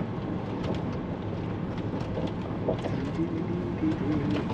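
Car transporter lorry's engine and road noise heard from inside the cab: a steady rumble as the truck drives slowly.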